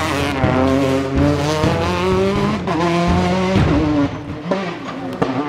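Peugeot 208 T16 rally car's turbocharged four-cylinder engine revving hard through the gears, its pitch climbing and then dropping sharply at each shift. The engine eases off about four seconds in, and a couple of short clicks follow.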